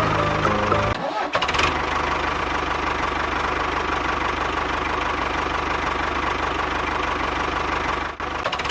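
Music ends about a second in, and a small engine runs steadily with a fast low pulsing beat. It briefly drops out near the end.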